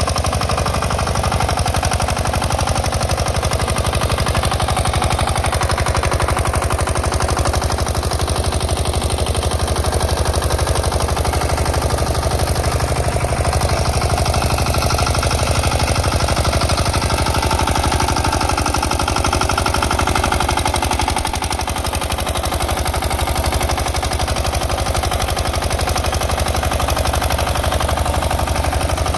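6 hp Field Marshall single-cylinder diesel engine running steadily with a fast, even clatter; the level dips briefly about three-quarters of the way through.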